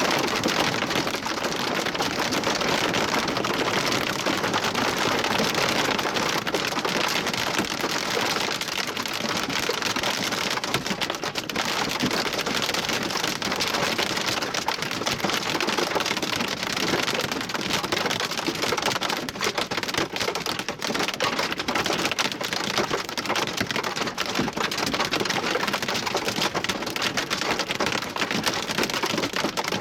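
Large wind-driven hail and rain pelting down: a dense, steady clatter of countless impacts.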